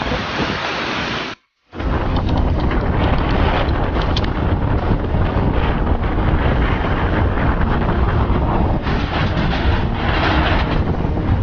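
Gale-force wind gusting hard against a phone microphone, a heavy low buffeting rumble under a rushing hiss. The sound drops out briefly about one and a half seconds in, then the wind resumes just as strong.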